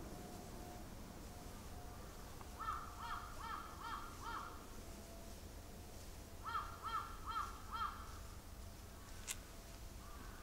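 A bird calling in two runs of short, repeated notes, five and then four, about two or three a second, a couple of seconds apart. A sharp click comes near the end.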